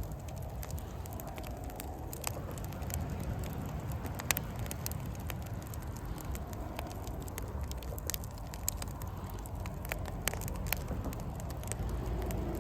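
Wood campfire crackling, with sharp pops scattered irregularly throughout over a steady low rumble.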